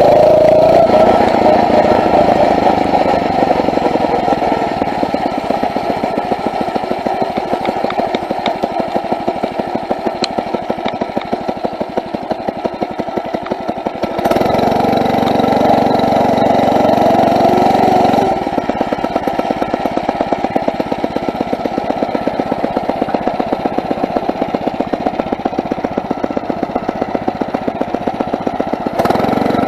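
Phatmoto four-stroke motorized bicycle engine running while riding, with a steady rapid chug of firing pulses. It gets louder for a few seconds about halfway through, and again near the end.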